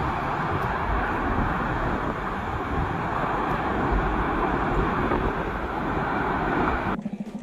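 Loud, steady rushing noise with no clear pitch. It cuts off abruptly near the end, where music begins.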